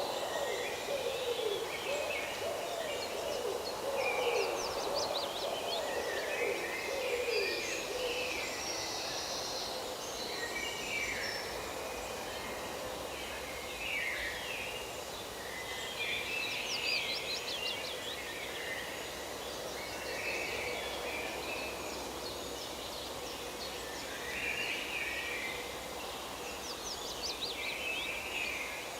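Forest birds singing and calling, several at once, with short chirps and trills throughout. Lower-pitched calls join in over the first eight seconds or so.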